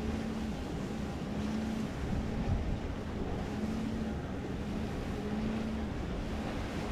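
Catamaran's engines running slowly at low revs, a low hum that swells and fades every second or so, over wind and water noise.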